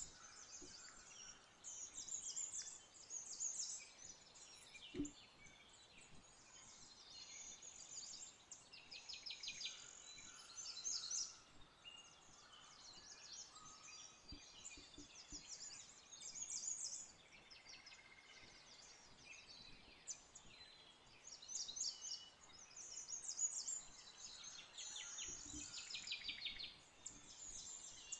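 Faint birdsong in the background: repeated high chirps and quick trills, with a couple of soft knocks.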